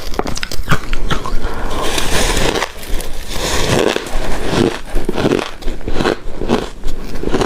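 Close-miked chewing and crunching of shaved ice dessert: irregular crisp crunches and clicks, with a denser hissing crunch from about two to four seconds in.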